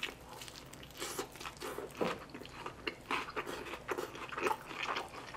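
Close-miked chewing of a mouthful of crispy battered fried fish taco, with irregular crunches several times a second.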